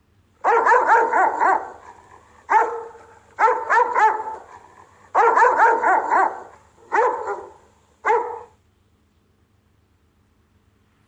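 Rottweiler guard barking: six bursts of rapid barks over about eight seconds.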